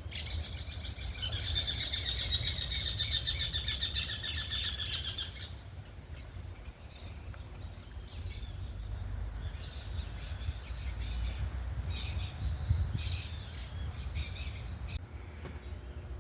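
Birds singing: a fast, dense trill for the first five seconds or so, then scattered short chirps, over a low rumble.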